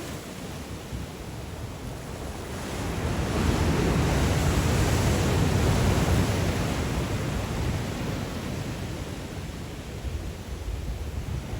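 Sea waves breaking on the shore in a strong wind, one wave swelling to a surge about a third of the way in and slowly washing back, with wind buffeting the microphone.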